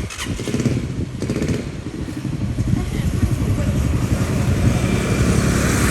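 Motorcycle engine running with a rapid low pulsing, growing gradually louder.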